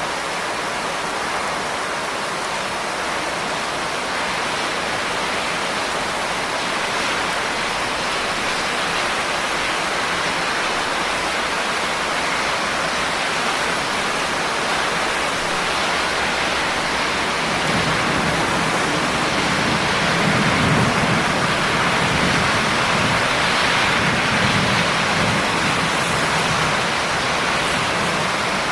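Steady rain falling, an even hiss of many drops. About two-thirds of the way through, a low rumble rises under the rain and the whole sound grows slightly louder.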